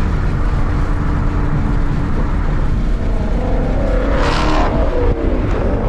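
Car engine and exhaust running steadily under way; about four seconds in a short hiss rises over it and the engine pitch sweeps and changes, as in a shift or change of throttle.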